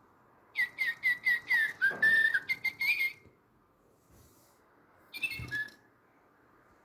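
Little Live Pets toy bird chirping: a quick run of short, downward-sliding tweets for about two and a half seconds, then a brief second burst of chirps a couple of seconds later.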